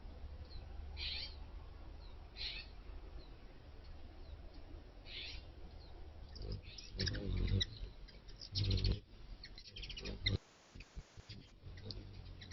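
Outdoor bird calls: short high chirps every second or so, with two louder, longer calls about seven and nine seconds in.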